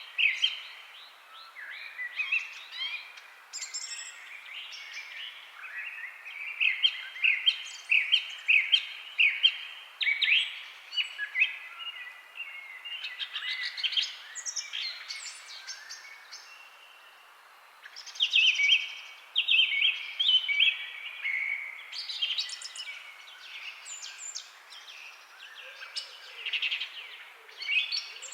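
Songbirds chirping and singing, with many short, quick, overlapping notes and a brief lull a little past halfway.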